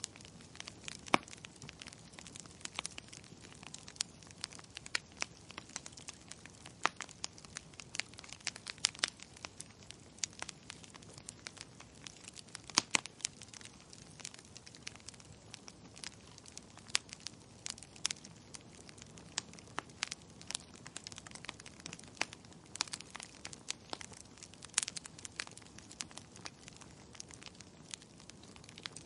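Wood fire crackling in a fireplace: a constant irregular patter of sharp snaps and pops, a few of them louder, over a soft even hiss.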